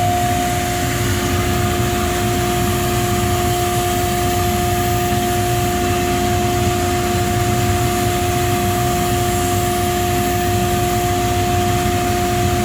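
Blademaster skate-sharpening machine running steadily, its finishing wheel motor and dust-collection blower on together, with a steady hum.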